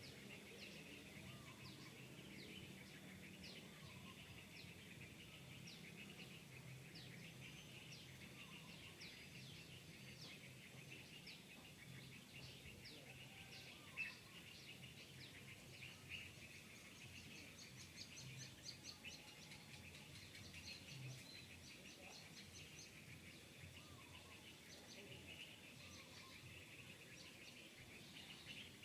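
Faint outdoor ambience of many small birds chirping, with a low hum underneath through much of it.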